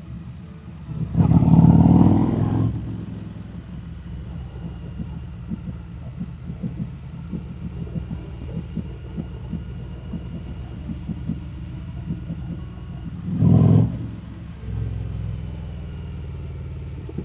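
Harley-Davidson Street Rod 750 V-twin running steadily while riding along. There is a louder rush of noise about a second in and a shorter one about thirteen seconds in.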